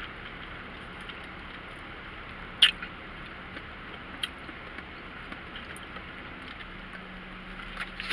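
Quiet room hiss with scattered faint clicks and one sharper click about two and a half seconds in.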